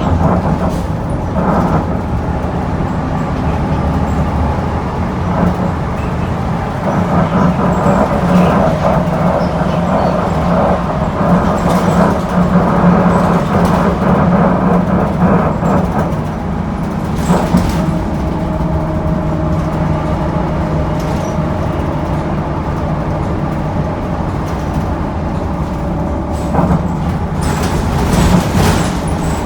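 Inside a NABI Metro 45C articulated transit bus under way: its Cummins Westport L9N natural-gas engine and Allison B400R6 automatic transmission run steadily with a whining drivetrain note, which grows louder for a stretch and then changes pitch about seventeen seconds in. Short body rattles and knocks run through the sound.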